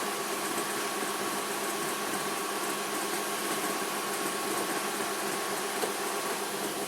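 Emco F1 CNC milling machine running steadily through a light finishing cut with a 16 mm four-flute cutter in a cast aluminium engine pan. There is a faint steady whine that fades about five seconds in.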